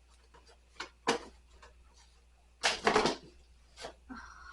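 Kitchen supplies being handled and set into a cabinet: a sharp click about a second in, a burst of rustling and clatter near the middle, and a brief squeak near the end.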